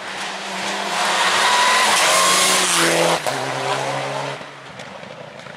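A rally car passing close at speed, its engine running hard under a loud rush of tyre noise. The engine note drops about three seconds in, and the sound fades after about four and a half seconds.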